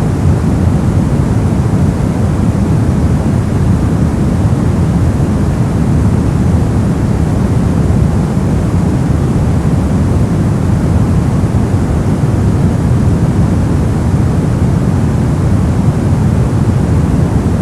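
Continuous synthetic noise sold as white noise: a steady, unchanging hiss with its weight in the low end, so it sounds deep and rumbling rather than bright.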